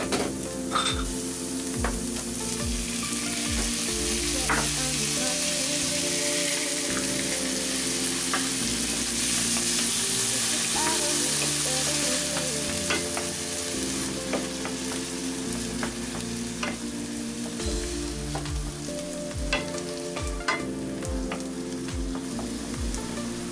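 Chopped onion and tomatoes sizzling in olive oil in a nonstick frying pan, with a spoon stirring and clicking against the pan. The sizzle swells a few seconds in, stays loud for about ten seconds, then eases.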